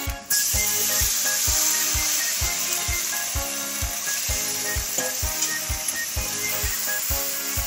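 Curry masala frying in oil in an iron kadai while being stirred, a steady sizzle that starts suddenly just after the start. Background music with a regular beat plays throughout.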